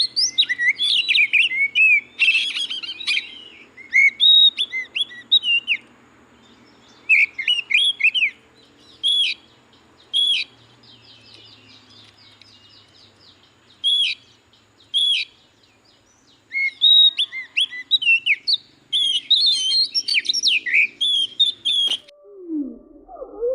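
Oriental magpie-robin calling: short, sharp whistled notes and chatter in quick bursts separated by pauses of a second or more. The calling cuts off suddenly near the end, giving way to a lower, slower gliding sound.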